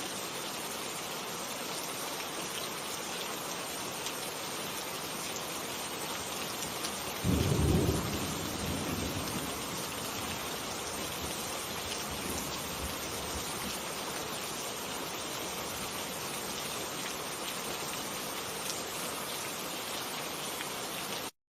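Steady rain falling, with a single loud clap of thunder about seven seconds in that rumbles away over a few seconds. The rain cuts off suddenly near the end.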